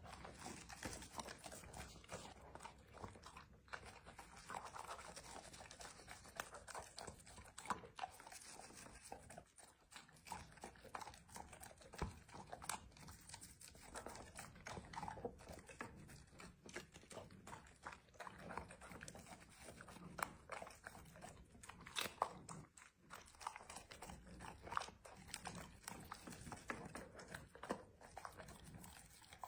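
A Labrador chewing and crunching its food, with irregular crunches, clicks and smacking throughout.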